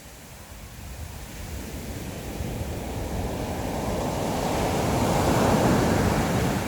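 Sea waves on the shore, one wave surging in and swelling to a peak near the end, with wind on the microphone.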